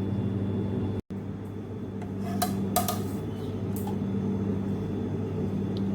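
A few light clinks of kitchen dishes or utensils knocking together, over a steady low hum.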